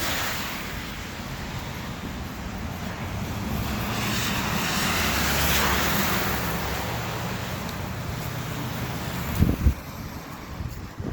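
A motor vehicle passing outside: a steady engine hum with a rush of noise that swells to a peak midway and fades again. Two sharp knocks near the end.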